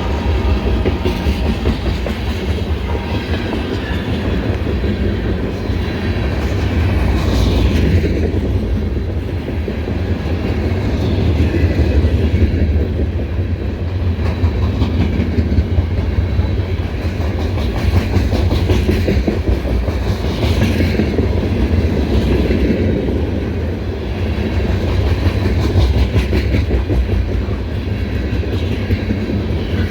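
A Canadian National ore train rolling past close by: a steady, heavy rumble of wheels on rail, with repeated clickety-clack as the wheels cross rail joints. A faint pitched hum fades out in the first few seconds.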